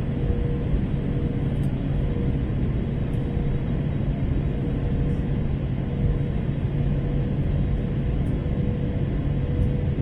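Steady cabin noise inside an Airbus A321 in flight: a deep, even rumble of the engines and airflow with a constant hum.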